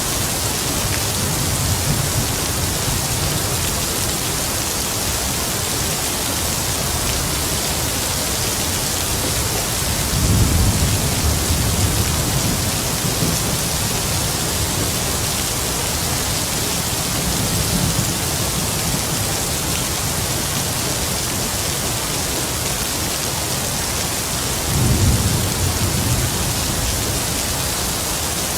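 Heavy rain falling steadily, with distant thunder rumbling low about ten seconds in and again near the end.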